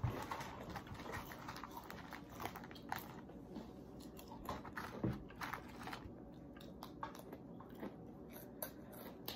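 People crunching and chewing crisp corn snack chips, crushed Xtra Hot Cheetos and Doritos, in a run of irregular crunches.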